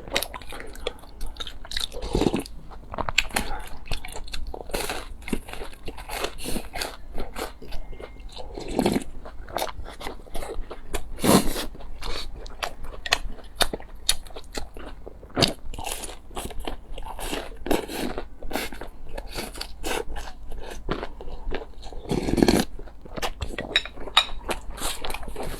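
Close-miked mukbang eating: continuous crunchy chewing with crackly clicks, broken by a few louder bites at about 2, 9, 11 and 22 seconds in.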